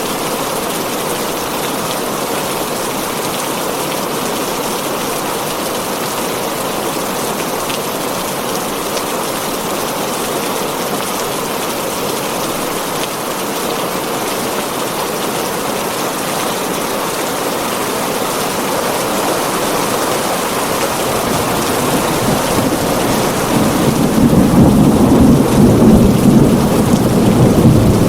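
Heavy rain falling steadily on a tin roof. About three quarters of the way through, a low rumble of thunder builds and grows louder to the end.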